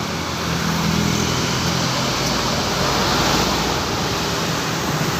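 Small 50 cc mini trail bike engine running at a steady low pitch under a broad, even rushing noise like wind and road traffic.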